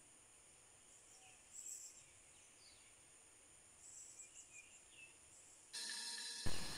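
Faint bird chirps over a quiet background, a few short calls near two seconds in and again around four to five seconds. Near the end a steady hiss comes in, with a brief bump.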